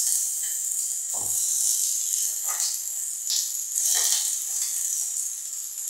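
Diced aubergine, red pepper and onion sizzling in oil in a hot frying pan, a steady high hiss. A few soft knocks sound as pieces are dropped in and the cook's hands work at the board, the lowest one about a second in.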